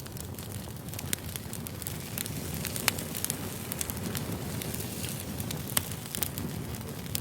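Wood fire crackling and popping over a steady low rumble, with a couple of louder sharp pops about three seconds in and again near six seconds.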